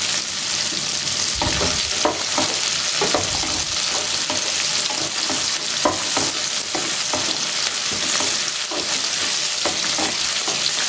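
Shallots, garlic cloves and dried red chillies sizzling steadily in gingelly (sesame) oil in a metal pan as they sauté until soft. A spatula scrapes and knocks against the pan again and again as the mixture is stirred.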